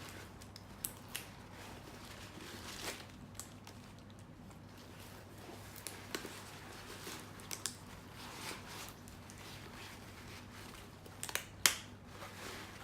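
Scattered sharp clicks and snips of hand work on dry suit fabric and parts, with soft rustling between them. The loudest click comes near the end. A faint steady hum runs underneath.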